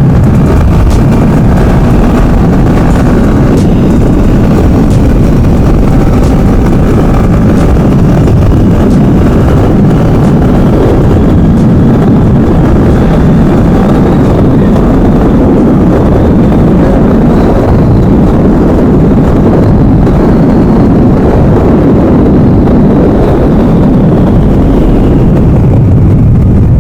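Motorcycle on the move: a steady engine drone mixed with heavy wind buffeting the microphone, very loud and unbroken.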